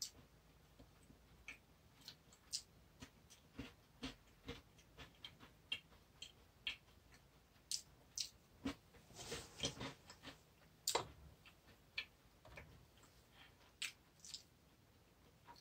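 Close chewing of a crisp biscuit: a run of faint, irregular crunches and mouth clicks, with a denser stretch of crunching about nine seconds in.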